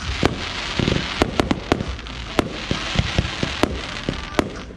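Fireworks display: a string of sharp bangs from bursting aerial shells, irregularly spaced, over a continuous hiss.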